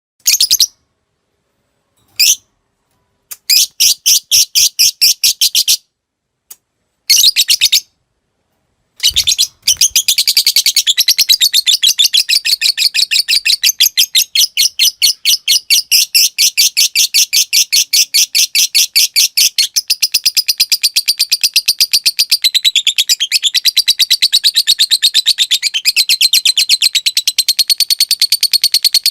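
Lovebird calling: a few short, sharp chirps and brief rapid ticking runs, then from about nine seconds in a long unbroken rapid chattering trill (the 'ngekek panjang') that carries on for some twenty seconds.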